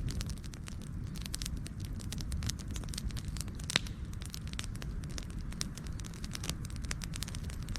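Wood fire burning with a low steady rumble and frequent irregular crackles and pops, one sharper pop about halfway through.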